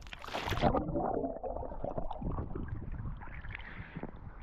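Lake water splashing and sloshing around a person wading in to swim, with a louder splash right at the start.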